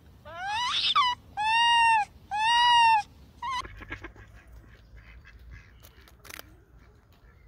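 Barbary macaque calls: four high calls with a clear pitch in the first three and a half seconds, the first one rising and two held for about half a second each. They are followed by faint, irregular clicking as a nutria gnaws its food.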